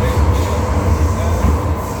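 MTR M-Train metro train running between stations, heard from on board: a steady heavy rumble of the wheels on the track with a faint steady hum over it.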